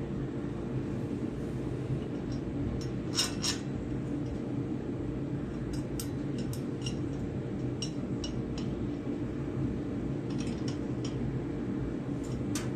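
Metal tools and parts clinking with scattered short taps, a sharper pair about three seconds in, while a pulley is fitted onto a garden tractor's starter-generator, over a steady low hum.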